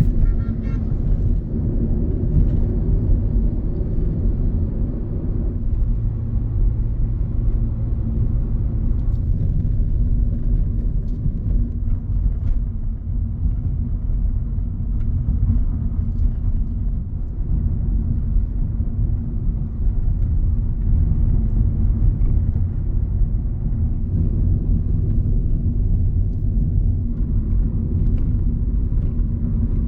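Road vehicle driving: a steady low rumble of engine and road noise with a steady hum, unbroken throughout.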